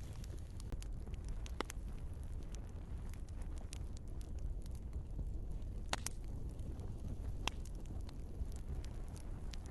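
Log fire in a fireplace crackling: scattered sharp pops and snaps over a steady low rumble, the loudest pops about six and seven and a half seconds in.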